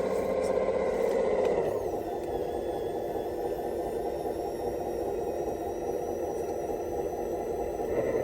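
Converted Bruder A60H RC rock truck running, its engine-sound unit playing a steady simulated engine note over its electric drive motors. The engine note drops about two seconds in and rises again near the end.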